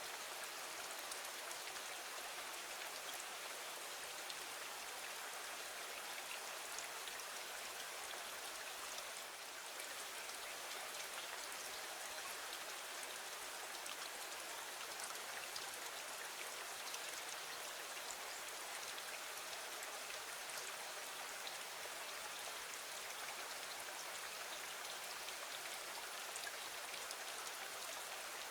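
Steady rain with scattered faint ticks of drops.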